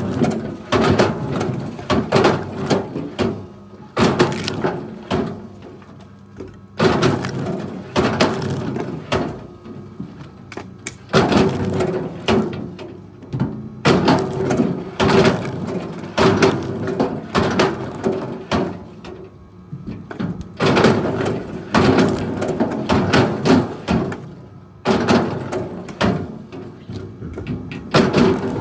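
Wood cracking and splintering in repeated bursts every second or two, over the steady hum of a running engine.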